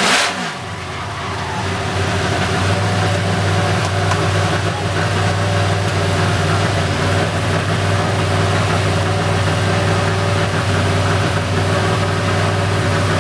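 Drift car's engine heard from inside the car: a short burst of noise and falling revs right at the start, then a steady idle while the car sits stopped.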